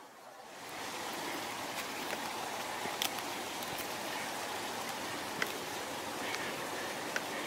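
Steady rushing of running water, like a creek, that comes up about half a second in. A few short, sharp ticks sound over it.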